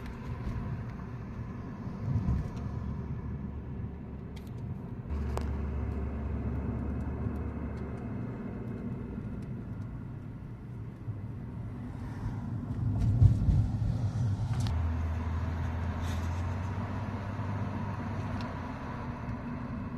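Street traffic: car engines running and vehicles passing, a steady low rumble that swells as vehicles come closer, about 2 seconds in and again around 13 seconds.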